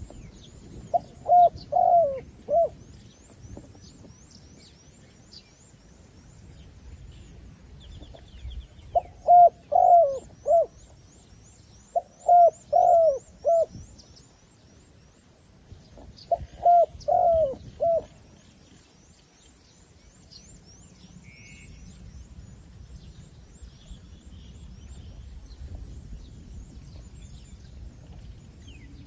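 Zebra dove, a caged decoy, cooing in four short bursts of rapid, staccato notes, the calls meant to lure wild doves. Faint high chirping runs on behind.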